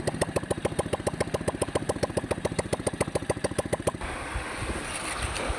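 Small engine running with an even chugging beat of about ten pulses a second, then shutting off about four seconds in.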